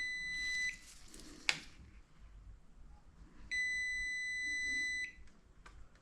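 Electronic beeper sounding two steady high beeps, a short one at the start and a longer one of about a second and a half near the middle, with a sharp click between them.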